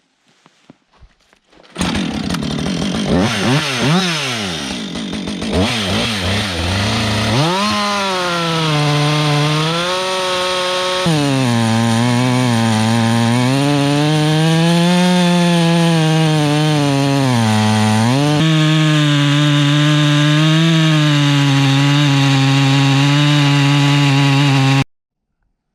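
Two-stroke chainsaw bucking a large log: a few seconds of quick revving, then a steady high engine note under load that sags and recovers as the chain bites into the wood. It cuts off suddenly near the end.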